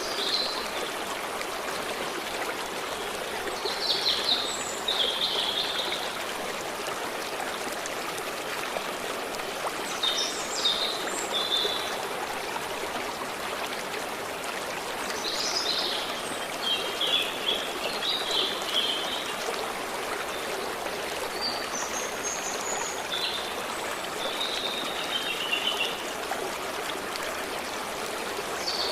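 Forest stream running steadily over stones, with songbirds calling in short bursts of high chirping phrases every few seconds.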